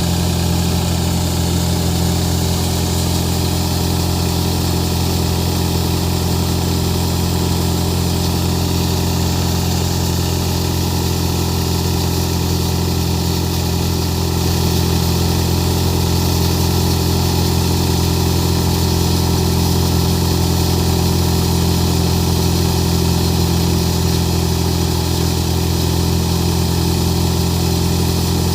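Farmtrac tractor's diesel engine running at a steady speed, driving a threshing machine that is threshing chickpeas: a loud, even, unchanging drone.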